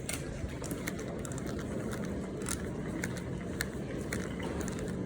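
Steady low rumble of background ambience with scattered light clicks and knocks.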